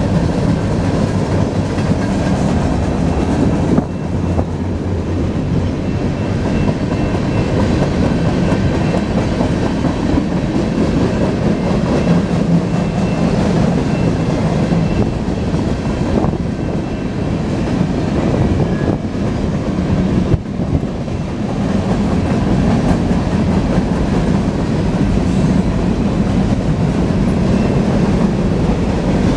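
Freight cars rolling past in a steady, continuous rumble, their wheels clattering on the rails.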